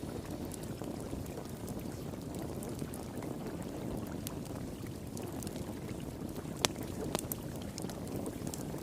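Steady rush of flowing water with a fire pit crackling over it: scattered small pops, and two sharper pops about two-thirds of the way in.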